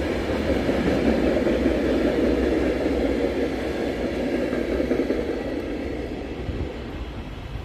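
Freight train rolling along the rails, its wheel rumble steady at first and then fading from about five seconds in as it draws away.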